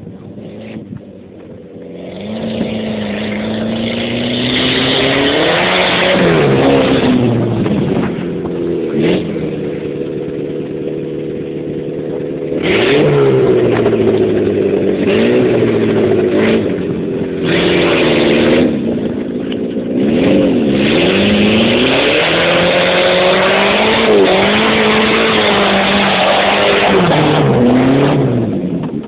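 Nissan Sunny's engine revving hard, its pitch climbing and falling again and again as the car is driven over mud and dirt heaps, with bursts of rushing noise on top.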